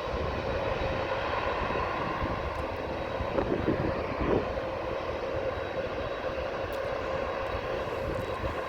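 Jet airliner engines running steadily after takeoff: a continuous rumble with a faint steady whine over it.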